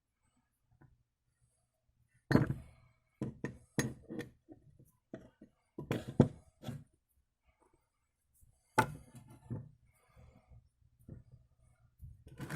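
Irregular knocks and clinks of tools on metal during work on a propshaft universal joint, coming in short clusters of sharp strikes with pauses between.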